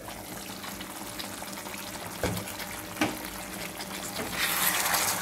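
Chicken curry sizzling and bubbling as it slow-cooks in thick masala in a kadai, with two light knocks about two and three seconds in. The sizzling grows louder near the end, with the pan uncovered and stirred.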